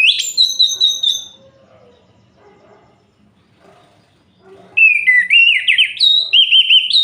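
Orange-headed thrush (anis merah) singing: a phrase of quick high whistled notes right at the start, then a longer, more varied run of rapid warbling notes from about five seconds in.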